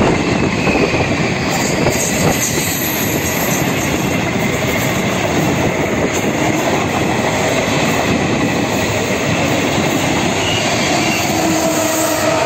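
Electric passenger train passing close at speed: a loud, steady rush and rumble of wheels on rail. A faint high squeal sounds over the first few seconds, and a humming tone comes in near the end as the locomotive at the rear goes by.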